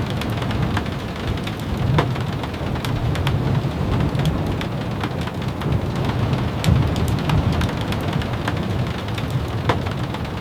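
Steady rain with a low, rumbling undertone, and scattered sharp taps of drops throughout.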